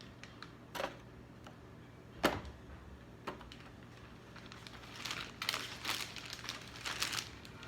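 Kitchen handling sounds: a few scattered clicks and knocks, one louder knock about two seconds in, then a stretch of rustling and crinkling for the last few seconds.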